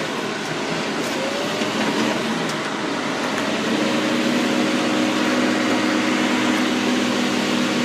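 John Deere 6230 tractor running and moving slowly, heard from inside its cab: a steady engine and cab noise. A steadier low hum sets in about four seconds in.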